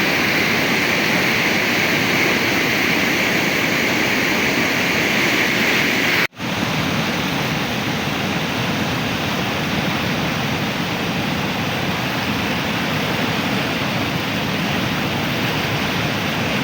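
Loud, steady rushing of floodwater, cutting out for an instant about six seconds in.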